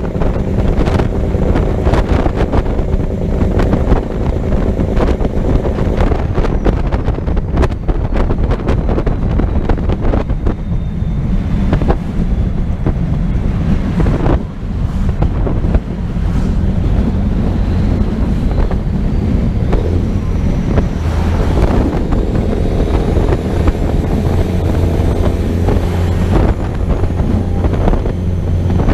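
Engine and road noise of a vehicle driving at speed, with heavy wind buffeting the microphone.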